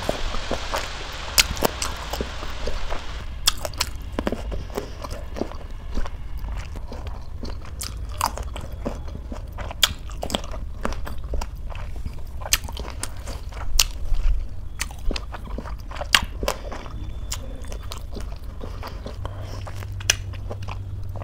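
Close-miked chewing of red grapes: many sharp wet clicks and crunches as the skins and seeds are bitten. A steady hiss stops about three seconds in.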